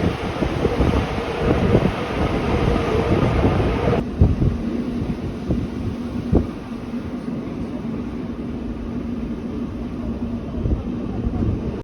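Rhätische Bahn regional train running on the rails: a steady rumble with a constant hum, which turns abruptly duller with a lower hum about four seconds in. A single knock comes a couple of seconds later.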